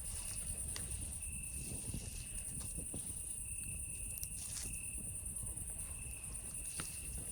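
Campfire crackling with scattered sharp pops over a low rumble, under a steady high chorus of night insects and a shriller single insect trill that sings in stretches of about a second with short gaps.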